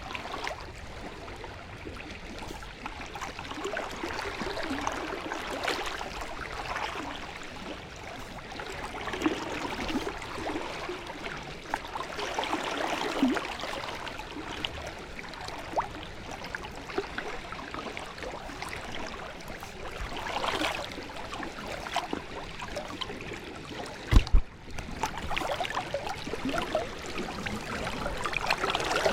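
River water flowing and gurgling, with scattered small splashes and clicks, and one sharp low thump about 24 seconds in.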